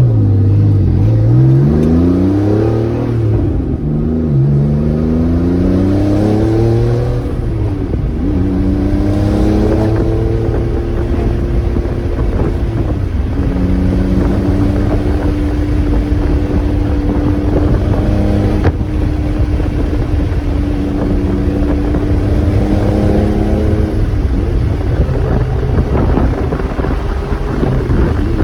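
Twin-turbocharged 1995 Porsche 911 Carrera's air-cooled flat-six accelerating through the gears, its pitch climbing and dropping back at each upshift over the first eight seconds. It then settles into a steady drone at cruising speed.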